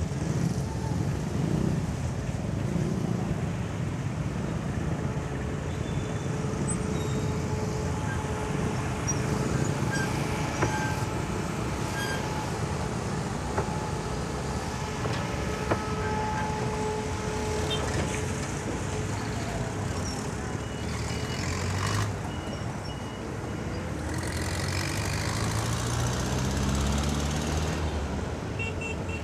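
Motorcycle ride through highway traffic: engine running under a steady low rumble of road and wind noise, with other vehicles around. Near the end an engine rises steadily in pitch as it accelerates.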